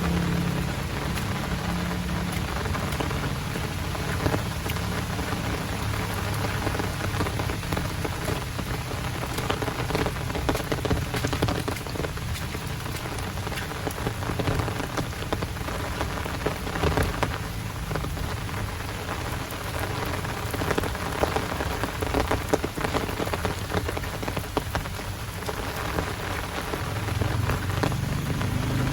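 Heavy rain falling steadily, with many close drops ticking sharply over the dense wash of the downpour. A low engine hum sits under the rain in the first couple of seconds and comes back near the end.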